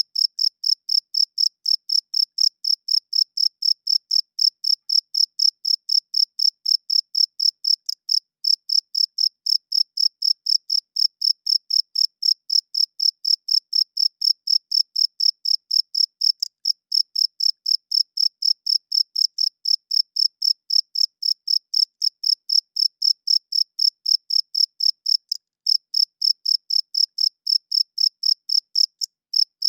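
Male cricket chirping, rubbing its wings together: a steady train of short, high, clear chirps, about three to four a second, broken by a few brief pauses.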